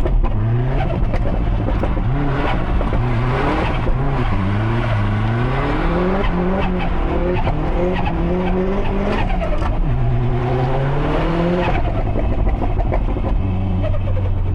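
Built Subaru Impreza STI's big-turbo EJ257 flat-four being driven hard, revving up in many short climbs and dropping back repeatedly as the throttle and gears are worked. Sharp cracks are mixed in throughout.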